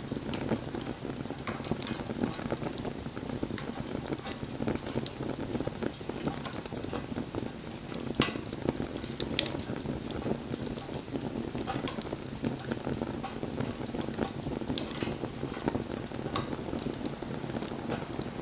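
Wood fire burning with a steady hiss and frequent sharp crackles and pops, two of them louder about eight and nine seconds in.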